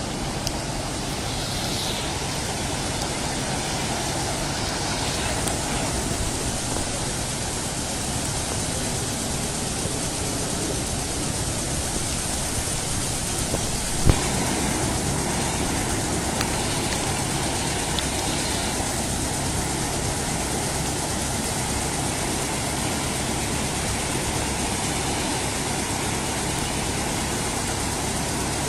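Steady rush of floodwater with a truck engine running under it, and a single sharp knock about halfway through.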